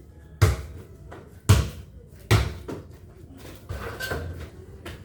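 Basketball bouncing on a hard court, four bounces about a second apart, the last one softer.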